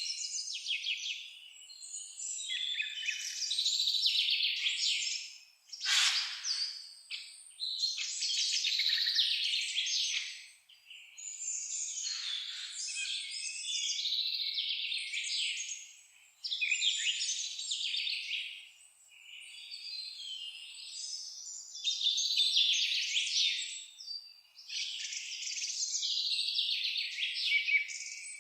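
Songbirds singing together: overlapping phrases of rapid chirps and trills, one burst after another with brief lulls between them.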